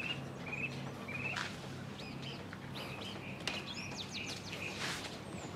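Small birds chirping: a short high trill repeated several times, with quicker, higher chirps in the middle seconds, over a faint steady low hum.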